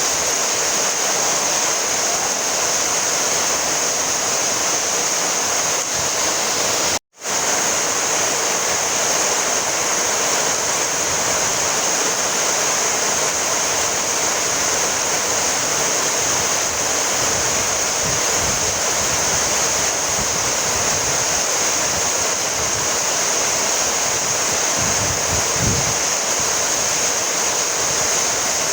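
Steady, even rainfall, a dense hiss of drops. The sound cuts out completely for a split second about seven seconds in, then resumes unchanged.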